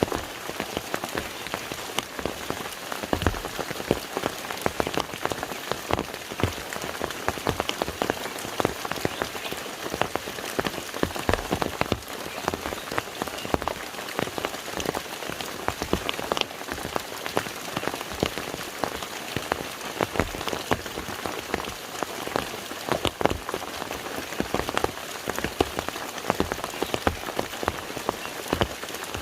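Steady rain falling on a lake's water surface, a continuous patter of many distinct drop splashes.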